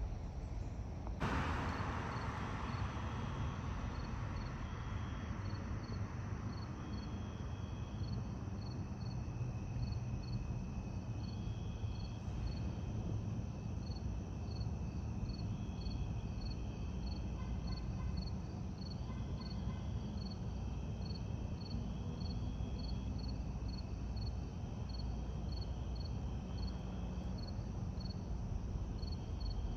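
Steady low rumble of a distant aircraft, with a sudden rush of noise about a second in that fades over a few seconds. Insects chirp steadily on top, about two chirps a second.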